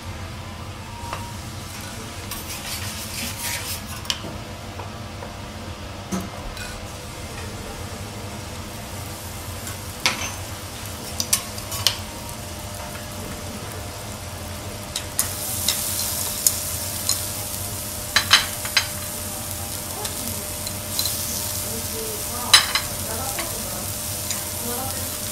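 Oil and butter sizzling on a hot steel teppanyaki griddle, with sharp clicks of metal spatulas striking the griddle now and then. The sizzling gets louder a little past the middle, once the diced chicken and onion are on.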